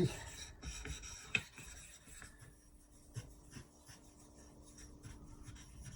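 Faint rubbing and scraping on a whetstone, with scattered light taps and one sharper knock about a second and a half in.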